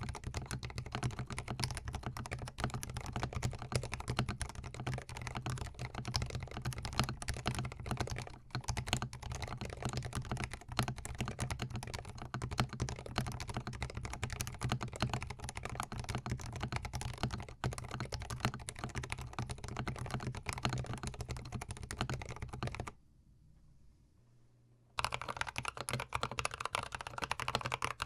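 Continuous fast typing on a GMMK Pro mechanical keyboard fitted with Tealios linear switches, a dense run of keystroke clacks. It stops for about two seconds near the end, then resumes on Novelkeys Cream switches.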